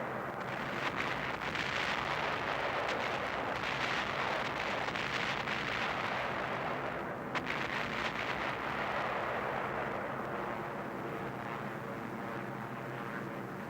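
Multi-engined piston bomber's engines droning steadily, with rumbling, crackling explosions over the drone that swell and fade through the first half, and a single sharp crack about seven seconds in.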